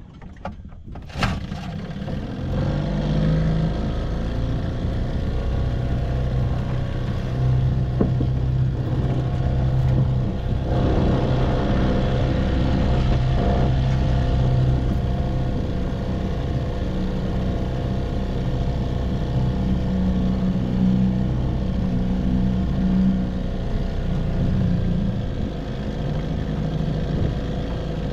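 1958 Evinrude 3 hp two-stroke outboard motor coming up to speed about two seconds in, after a sharp click, then running steadily with small shifts in pitch.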